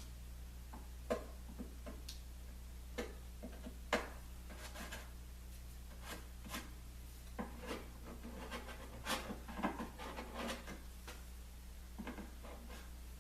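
Hand work on wood: irregular scraping and rubbing with scattered light clicks and knocks, as wet glue squeeze-out is scraped off the edge of a glued Baltic birch lamination.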